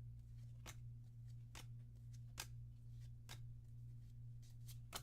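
Trading cards being flipped through one at a time, a short crisp flick about once a second, over a steady low hum.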